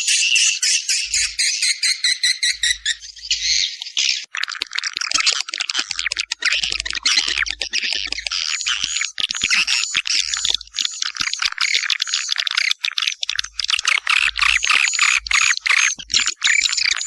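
Swiftlet lure call: a recording of edible-nest swiftlets twittering, used to draw birds into a nest house. It is a dense, continuous stream of fast high chirps, and the mix changes abruptly about four seconds in.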